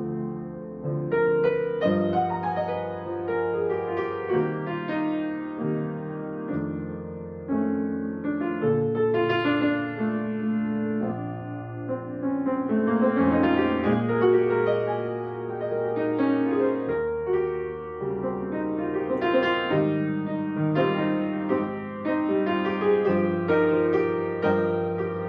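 Solo piano playing a slow Christmas medley, in sustained chords that change every second or so.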